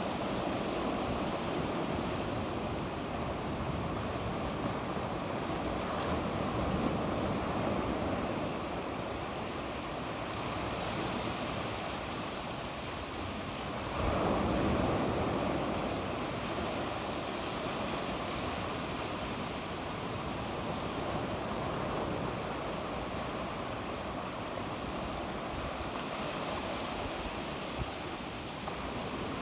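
Sea waves breaking and washing on the shore in a steady wash, with one louder wave about halfway through.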